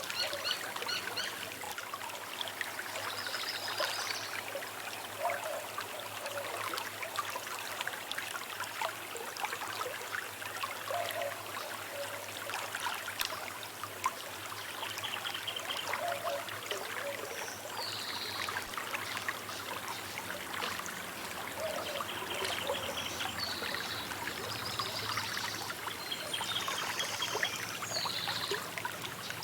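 Small river trickling and babbling steadily, with birds calling at intervals.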